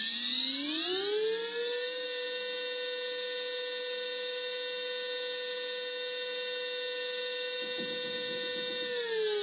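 KaVo PowerGrip dental-lab micromotor running up to speed on its K-Control controller: a whine that rises in pitch over about two seconds, holds steady at high speed with a hiss, then begins to wind down near the end.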